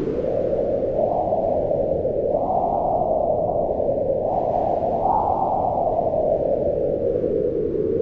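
Howling mountain wind: a steady rush whose pitch slowly rises and falls as it gusts, swelling higher twice near the middle.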